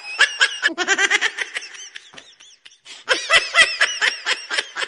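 Laughter sound effect: a person laughing in quick, rhythmic pulses. It breaks off abruptly under a second in, trails away faintly, and bursts out again about three seconds in.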